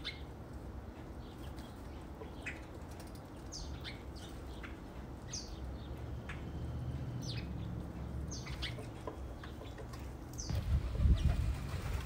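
Birds chirping: short, high, downward-sliding chirps every second or so over a steady low rumble, with a louder burst of low rumbling near the end.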